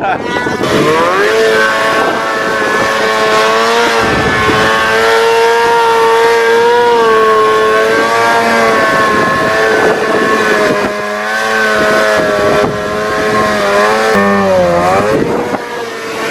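Snowmobile engine revving up about a second in and held at high revs under load, its pitch wavering slightly, with a brief dip and climb again near the end.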